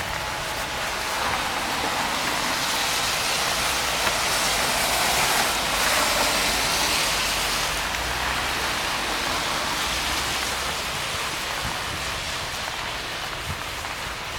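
A vehicle passing on a snow-covered street, its tyre hiss swelling to a peak around the middle and then fading away.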